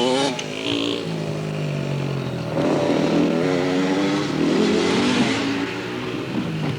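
Dirt bike engine revving and easing off. The pitch falls at the start, runs low and steady for a moment, then climbs and wavers up and down from about two and a half seconds in before settling lower near the end.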